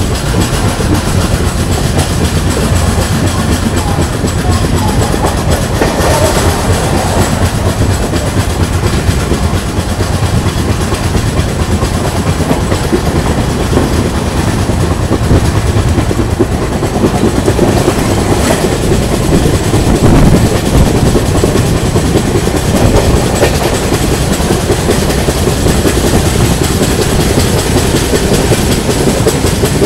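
Konark Express passenger train running on the rails after pulling away from a station, its coach wheels clattering over the track with a steady, loud rumble. It grows briefly louder about twenty seconds in.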